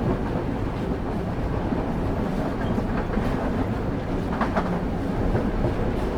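Railway carriage wheels running on the track, heard from on board: a steady low rumble with an occasional clack of the wheels over rail joints, two close together about four and a half seconds in.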